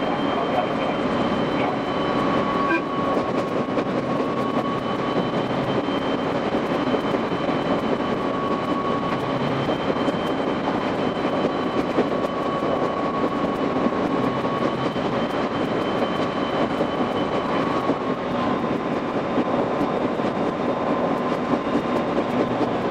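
A local train running, heard from the cab and played back at five times speed. Wheel-on-rail noise turns into a dense, fast clatter, with steady high whines running through it.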